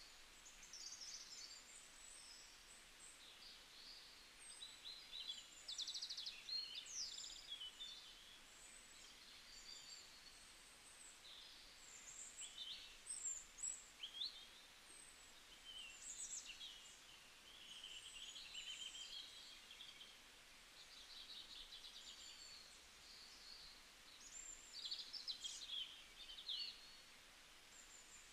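Faint birdsong: small birds chirping and trilling high and often, in overlapping short calls, over a steady low hiss.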